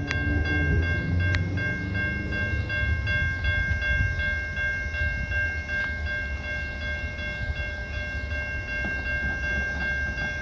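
Metra commuter train arriving at a station: a low rumble with several steady high-pitched tones held over it, and a few sharp clicks.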